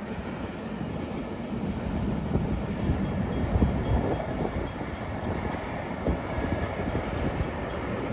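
Freight train cars rolling along the rails, a steady rumble with scattered knocks of wheels on track.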